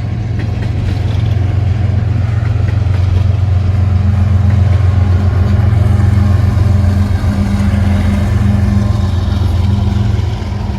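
Rear distributed-power diesel-electric locomotives of a coal train passing close by, their diesel engines running with a steady low drone that swells a little in the middle and eases near the end.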